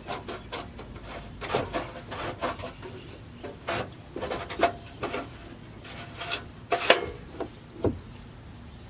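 Irregular knocks, scrapes and rubs of metal exhaust tips being handled and set down.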